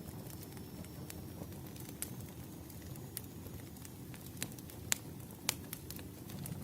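Burning firewood: a steady low rumble of the fire with scattered sharp crackles and pops, the loudest pair a little past the middle.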